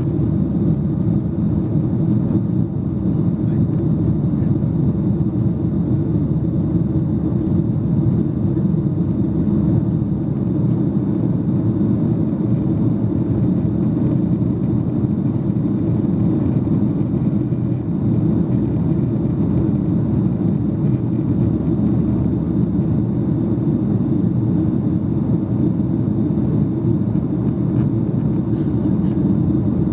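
Steady rumble and rush of a Boeing 737-800's CFM56 jet engines and airflow, heard inside the cabin from a seat over the wing.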